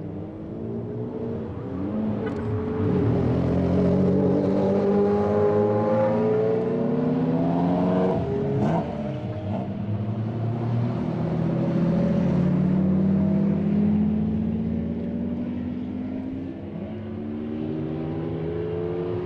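Several high-performance car engines accelerating and driving past one after another, their pitches rising and falling with throttle and gear changes, with a couple of sharp cracks along the way.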